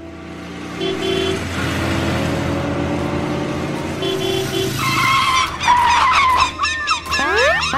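Cartoon vehicle sound effects: an engine running with a skidding, tyre-squeal noise and two short triple beeps. About five seconds in it gives way to whistly tones and quick rising swoops.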